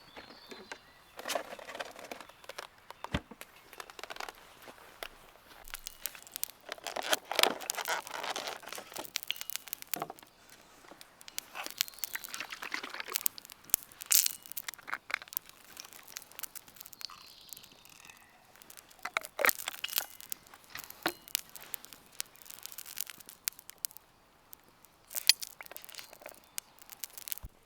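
Irregular rustling and crinkling of things being handled, with scattered clicks and a couple of sharp knocks, about three seconds in and near the end.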